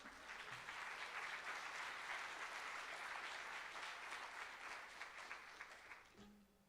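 Audience applauding after the song, dying away about six seconds in.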